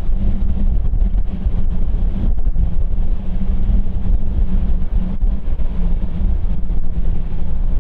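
Jet aircraft engines running with a steady low rumble and a faint hum, with wind buffeting the microphone.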